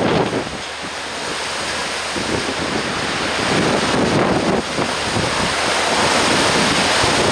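Storm-force wind gusting against the microphone over the rush of wind-driven water, the gusts easing about a second in and building again.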